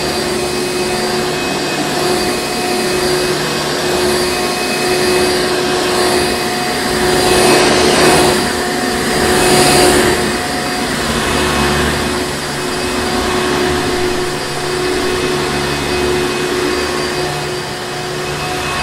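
Hoover Encore Supreme upright vacuum cleaner running steadily, a constant motor whine over a rush of air. The air noise swells louder twice about halfway through.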